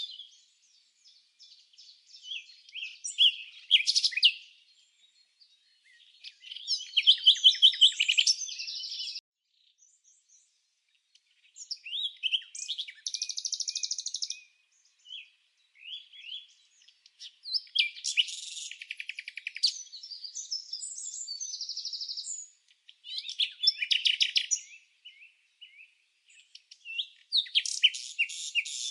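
A songbird singing in repeated phrases of rapid high chirps and trills, each a second or few long, separated by short pauses.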